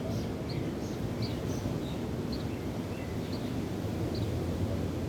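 Steady wind and waves, with small birds chirping in short high notes about twice a second.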